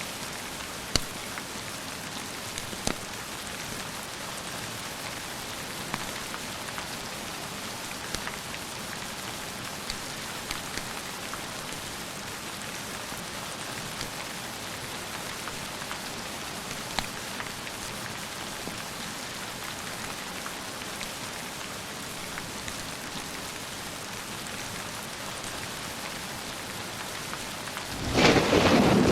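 Steady rain falling, with a few sharp pops scattered through it. Near the end a loud, low thunder rumble starts.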